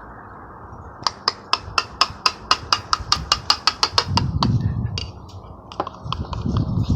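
A utensil clinking quickly and evenly against a hard container, about five ringing strikes a second, as when stirring a mixture; the clinking stops a little after four seconds in, and low handling noise follows.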